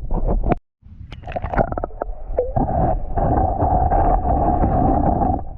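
Muffled rumbling and gurgling of water around a submerged phone microphone, with clicks and knocks of handling. The sound drops out completely for a moment about half a second in.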